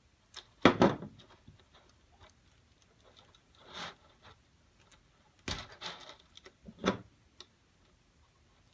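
Sharp clicks and snips of small 3D-printed plastic tiles being cut with a wire cutter and handled, scattered irregularly, with the loudest clicks about a second in, around five and a half seconds and near seven seconds, and a brief scrape near four seconds.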